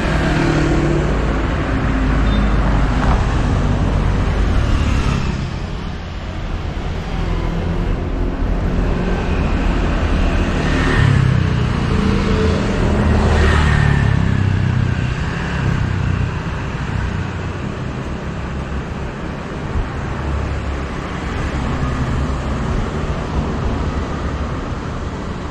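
Road traffic: motor vehicle engines running steadily, with vehicles passing close by at the start and again about 11 and 14 seconds in.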